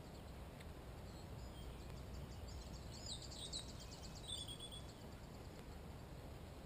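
A songbird sings one phrase: a fast series of high repeated notes that ends in a short flourish about four and a half seconds in. A steady low rumble runs underneath.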